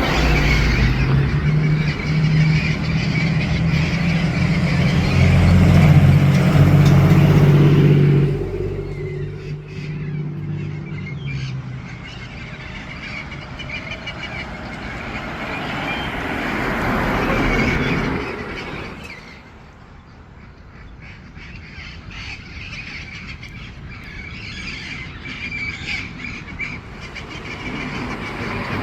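A large vehicle's engine drones loudly for the first eight seconds and fades away. Then squawking and chirping calls, the returning parrots, come over a quieter outdoor background.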